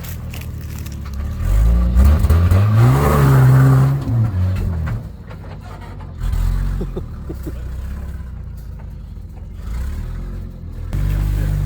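Four-wheel-drive's engine revving up about two seconds in and dropping back, then running lower and quieter before picking up again near the end.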